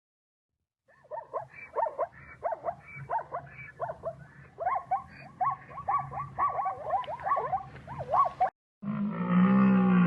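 An animal's rapid series of short, high squeaking calls, each sweeping up and down in pitch, starting about a second in; near the end it cuts to a louder, deeper animal call.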